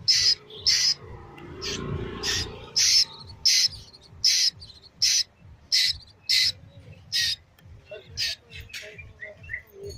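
Juvenile Asian koel giving a rapid run of short, harsh squawking calls, evenly spaced at roughly one to two a second, coming a little quicker near the end.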